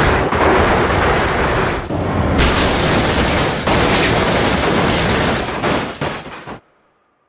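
Loud, rough rumbling noise like explosion or crash sound effects, swelling in a few surges, then cutting off abruptly about six and a half seconds in.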